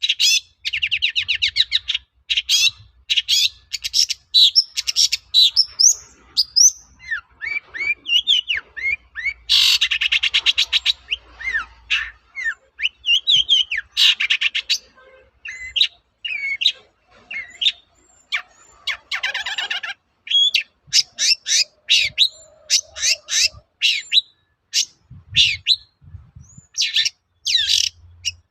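Long-tailed shrike singing a loud, rapid, varied song of short sharp notes, whistled slurs and harsh chattering rattles, with a long buzzy rattle near the start and another about ten seconds in.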